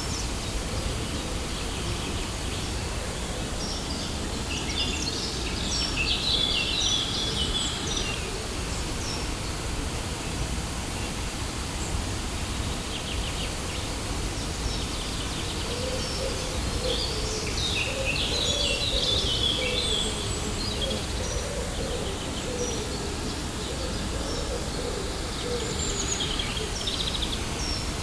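Waterfall rushing steadily, with small birds chirping over it in short clusters a few seconds in, again midway, and near the end.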